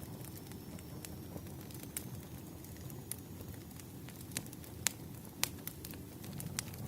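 Campfire crackling: a steady low rumble of burning wood with sharp, irregular pops, several louder pops in the second half.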